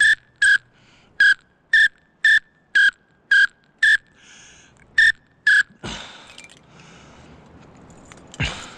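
Short, loud whistle notes, all on one pitch, blown on a hand-held call about two a second for nearly six seconds. Rustling follows, with a dull thump near the end.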